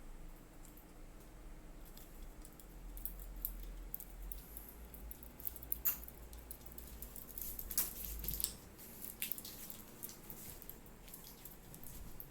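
Light scattered rustling and small clicks from a cat playing with a person, with two sharper clicks about six and eight seconds in.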